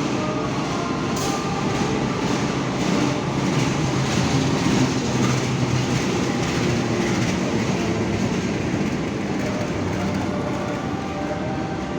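A train running past on the rails: a steady rumble of wheels and cars that swells to its loudest about five seconds in, then slowly eases.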